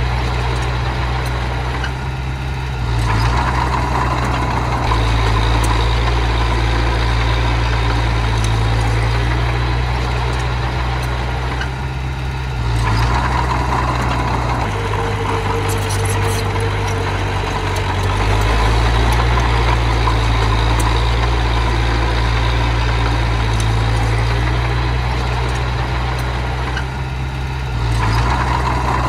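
Engine of heavy earthmoving machinery running continuously, swelling louder three times, at about 3, 13 and 28 seconds in, as it works under load.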